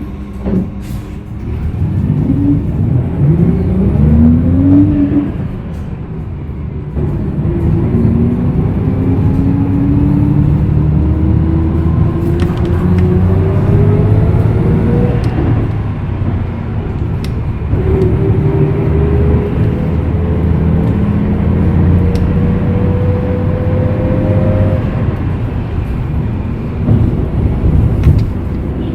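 A 2021 Hyundai Green City city bus's C6GB CNG engine and driveline under way, pulling through three rising pulls. In each pull a whine climbs in pitch with speed, with a short letup in between.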